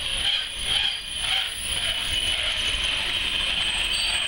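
Railway passenger coaches rolling past on the rails, with a steady high metallic squeal from the wheels and running gear over the running noise.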